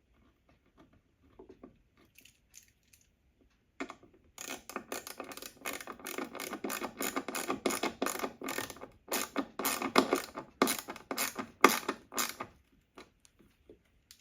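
Rapid ratcheting clicks from a hand tool, likely fastening the conduit clamp. They start about four seconds in and run quickly and unevenly for about eight seconds before stopping.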